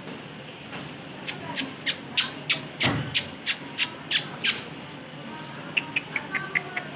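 Parrot giving a run of short, sharp squawks, about three a second, then a quicker series of quieter chirps near the end.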